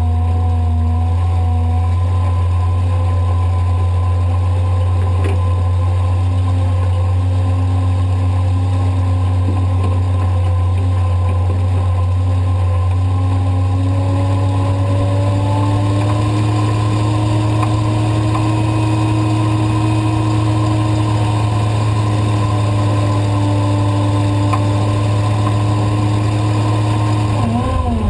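Tow truck engine running steadily under load while pulling a car out of soft sand. Its revs climb slowly, then drop sharply near the end.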